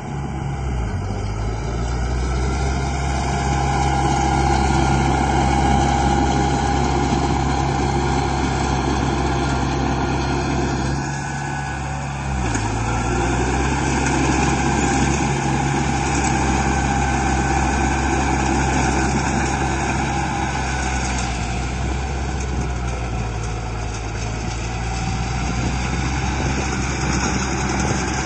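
Radio-controlled model construction vehicle running steadily with an engine-like drone, its pitch dipping briefly about a second in and again near the middle.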